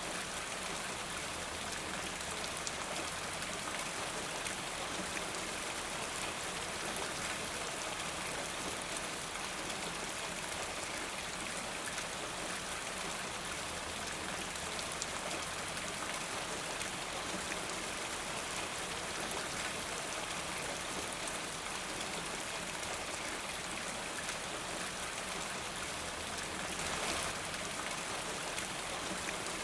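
Steady rain falling, an even wash of drops that swells briefly near the end.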